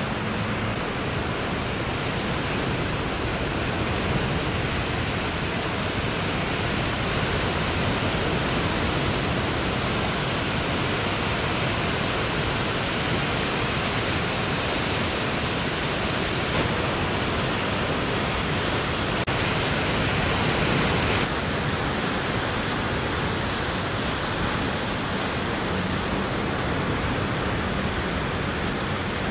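Ocean surf breaking, heard as a steady, even rush of noise.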